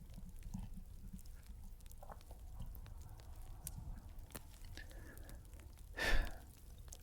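Fireplace ambience: a low steady rumble of the fire with scattered small crackles. A brief louder rush of noise comes about six seconds in.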